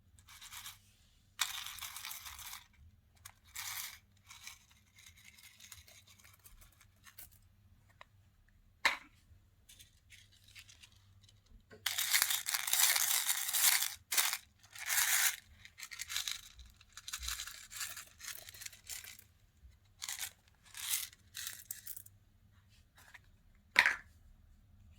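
Slime being worked by hand, in irregular noisy bursts of a second or two, with a longer spell in the middle and two sharp clicks.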